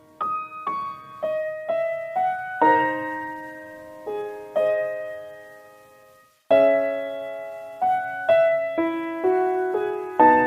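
Slow solo piano music, single notes and chords ringing out and fading. After a brief pause about six seconds in, fuller, louder chords come in.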